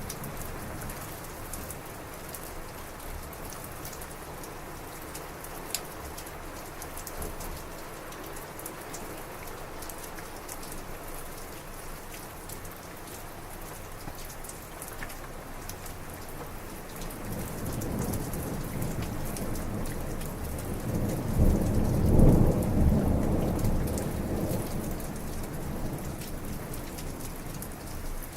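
Heavy rain falling steadily with scattered close drop hits. About seventeen seconds in, a low thunder rumble swells, is loudest a few seconds later and rolls away near the end.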